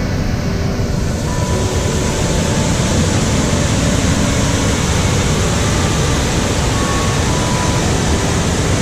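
Panther Creek Falls, a waterfall, giving a loud, steady rush of falling water.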